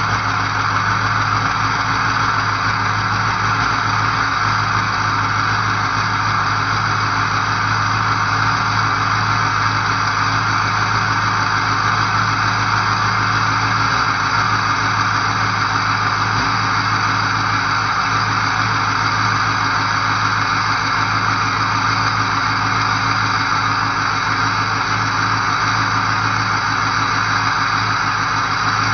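Ford 6.0L Powerstroke V8 turbo diesel idling steadily at low idle while still cold, warming up after a 15°F cold start without the block heater plugged in.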